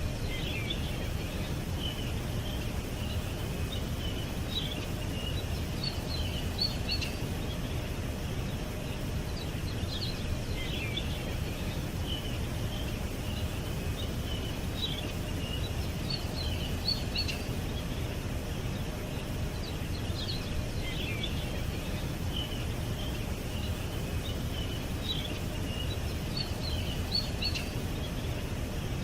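Small birds chirping in short bursts of high, quick notes, a cluster roughly every five seconds, over a steady low outdoor rumble.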